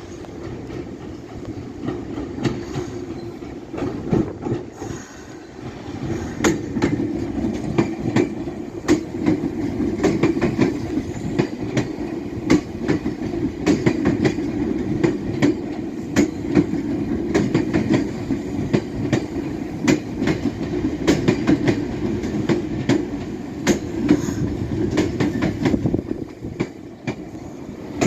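Meitetsu electric train moving through the station, a steady low rumble with many sharp clicks of the wheels over rail joints. It builds a few seconds in and eases near the end.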